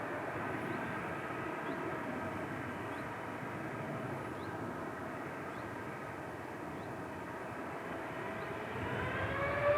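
Boeing 787 jet engines running with a steady whine and several held tones. Near the end the tones rise in pitch and grow louder as the engines spool up for the takeoff roll.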